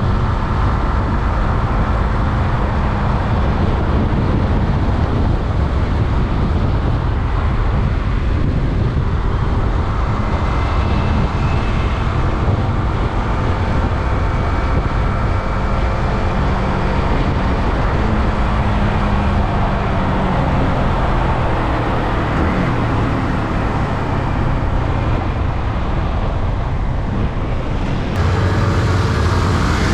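Yamaha R15M's 155 cc single-cylinder engine running through its stock exhaust while riding, the engine note rising and falling with the revs, over a steady rush of wind and road noise.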